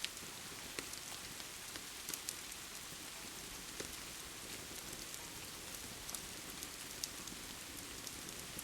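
Steady rain hiss with the crackle of a wood fire: irregular sharp pops and snaps every second or so.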